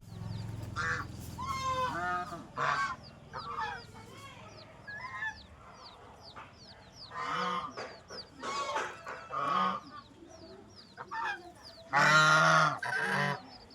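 Farmyard waterfowl calling in short honks and quacks, with one loud, longer call near the end, over a steady run of high, falling peeps.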